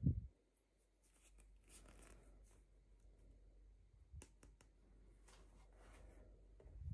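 Quiet hand handling of toy packaging: faint rustling and a few small clicks, with a dull thump at the start and another near the end.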